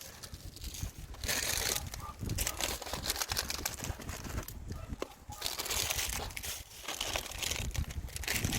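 Crinkly plastic instant-noodle packets being handled and rustled, in several uneven bursts of crackling.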